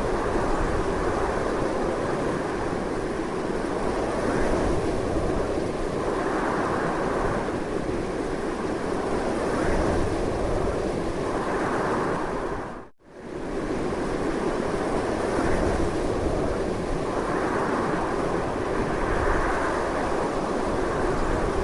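Strong wind blowing steadily, with slow swells and ebbs. About two-thirds of the way through it drops out for a moment and comes straight back.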